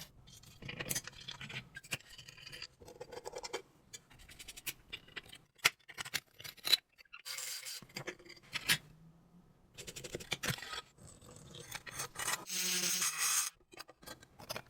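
Irregular scratching and scraping on a small metal toy train, broken by sharp clicks and knocks as the parts are handled. This is the sound of restoration work, such as scraping or brushing off old paint and rust.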